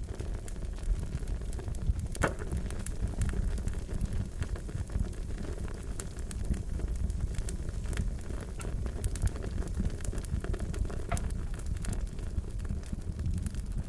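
Fire crackling over a steady low rumble, with scattered sharp pops, the loudest about two seconds in.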